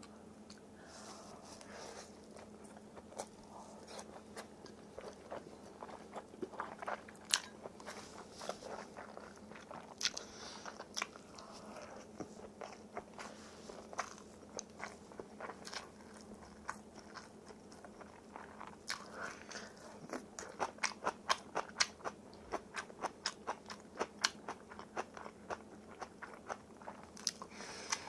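A person chewing crunchy food close to the microphone: crisp crunches and wet chews, bunching into quick runs of several crunches a second in the last third.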